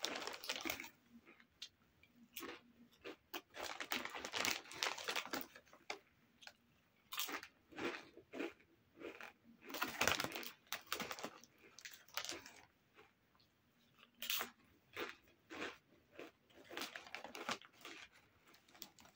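Crunchy nacho tortilla chips being chewed, close up, with irregular clusters of crisp crunches.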